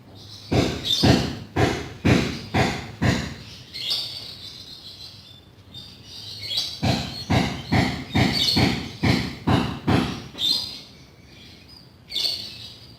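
Rhythmic back-and-forth rubbing strokes on a wooden cabinet surface, about two a second, in two runs with a pause between.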